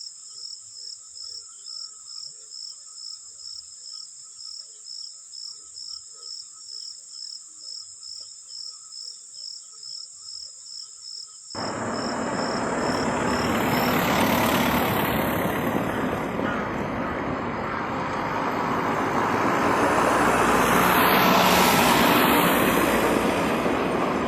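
An insect, likely a cricket, chirping steadily at about three chirps a second. About halfway through it is abruptly replaced by loud, rushing vehicle noise that swells twice.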